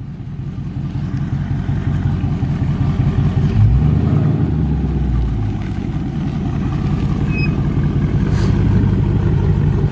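Dodge Charger Scat Pack's 392 HEMI V8, with an aftermarket exhaust, running at low speed as the car creeps along, a steady deep rumble with a short swell about four seconds in.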